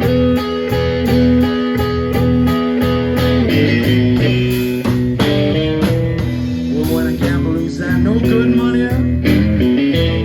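Blues guitar playing an instrumental passage: a repeating low bass-note pattern under lead lines, with bent notes about halfway through.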